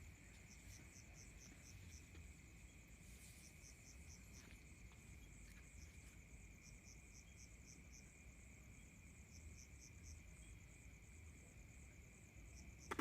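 Night crickets and other insects: a steady high-pitched trill under runs of rapid, evenly spaced chirps, faint throughout. There is one sharp snap right at the end.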